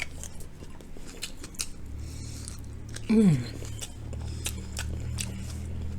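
Many small, soft clicks and taps from handling and eating pieces of breaded cauliflower close to the microphone, with a short falling 'mm' about three seconds in.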